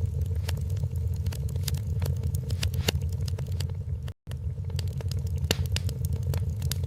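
Wood fire in a fireplace crackling, with irregular sharp pops and snaps over a steady low rumble of the flames. The sound cuts out for an instant about four seconds in.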